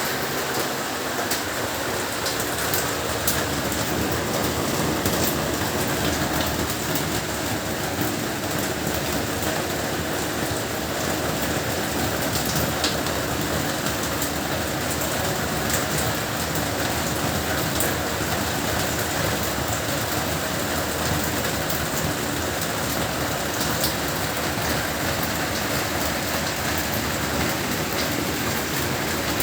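Heavy rain falling steadily, an even hiss with scattered sharper drops.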